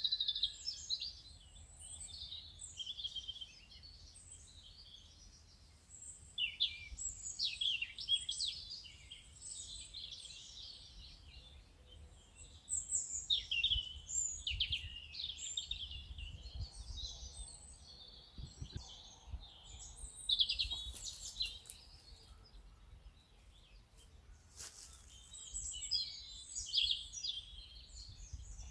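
Birds singing: many overlapping high chirps and trills, near-continuous with short lulls, over a low rumble. A couple of brief clicks come about two-thirds of the way through.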